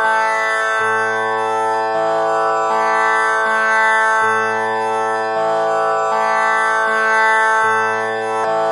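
Tanpura drone tuned to A, its four strings plucked one after another in a repeating cycle, a pluck about every second, each note ringing on under the next.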